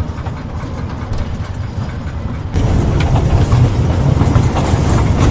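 Museum toy train running along its track, heard from on board: a steady low rumble with clatter, turning suddenly louder about halfway through.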